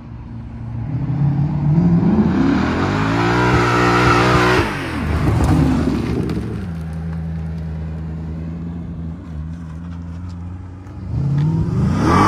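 BMW drift car's engine revving hard as the car slides: the pitch climbs for several seconds, drops sharply, holds a steadier lower note, then climbs again near the end.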